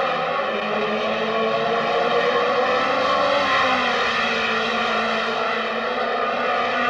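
Racing car engine running at high, near-steady revs, its pitch dipping slightly about halfway through.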